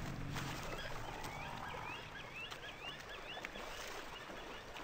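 Birds calling in the background: a run of quick, wavering high chirps repeated over a couple of seconds.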